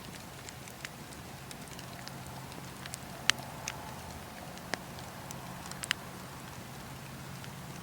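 Campfire burning: scattered sharp crackles and pops of burning wood over a steady hiss and low rumble, the loudest pop about three seconds in.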